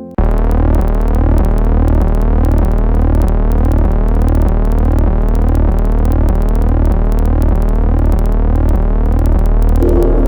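Electronic synthesizer tones that cut in abruptly: a loud, steady low drone under fast, evenly repeating pitch sweeps. Near the end they give way to piano music.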